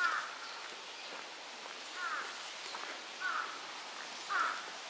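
A bird calling outdoors: four short calls spaced about a second or two apart, over a faint steady background.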